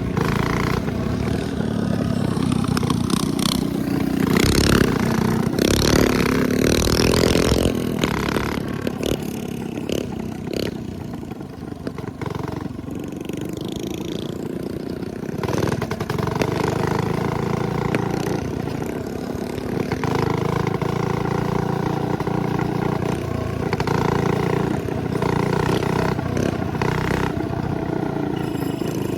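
Minibikes' 212cc single-cylinder four-stroke engines running and revving during riding, the pitch rising and falling with the throttle. They are loudest a few seconds in, easing off near the middle, then climbing again.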